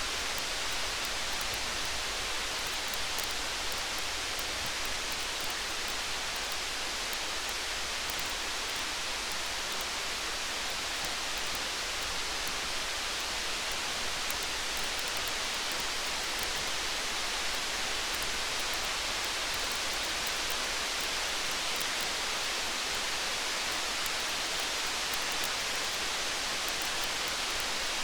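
Steady rain hiss, even throughout, with faint scattered light ticks and a low rumble underneath; a rain-and-campfire ambience mix.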